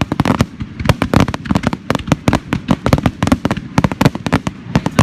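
Aerial fireworks bursting close by in a rapid barrage, many sharp bangs and crackles a second overlapping one another.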